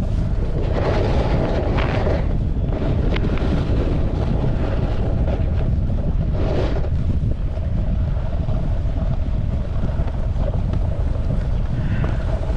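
Wind buffeting the microphone of a camera riding on a moving snowboard, a steady low rumble, with a few brief hissing surges of the board sliding and scraping over snow.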